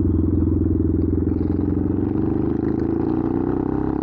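Benelli TNT 125's single-cylinder four-stroke engine running loud through a newly fitted, less-muffled exhaust, a raspy note like a dirt bike. It holds a steady note that eases slightly lower.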